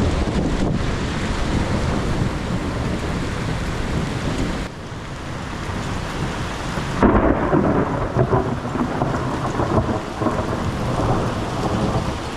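Thunderstorm: heavy rain and gusting wind with a low rumble. The sound dips about four and a half seconds in, then comes back rougher with irregular spikes.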